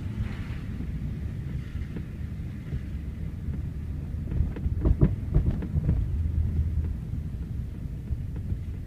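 Nissan 350Z's 3.5-litre V6 through a Tomei Expreme cat-back exhaust, heard from inside the cabin while driving: a steady low rumble. A cluster of short knocks comes about five seconds in.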